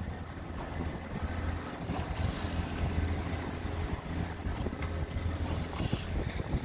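Small tour boat's motor running steadily with a low hum that swells and eases, under wind buffeting the microphone and water rushing past the hull.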